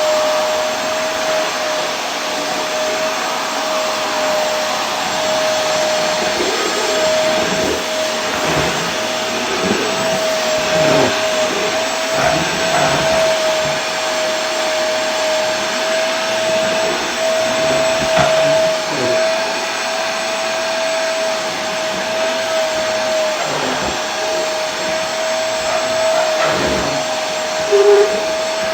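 Vacuum cleaner running continuously: a steady motor whine over a loud rushing hiss, with slight wavers in the pitch and one brief louder blip near the end.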